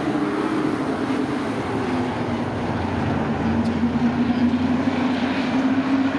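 Racing sport trucks' engines running at speed around a short oval. It is a steady engine note whose pitch dips in the middle and climbs again toward the end.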